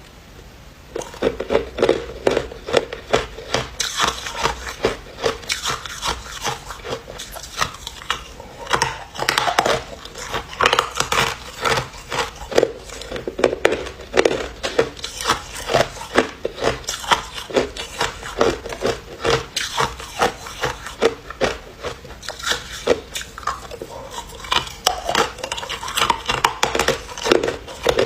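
A person biting and chewing ice: a steady run of sharp crunches and cracks, several a second, after a brief pause at the start.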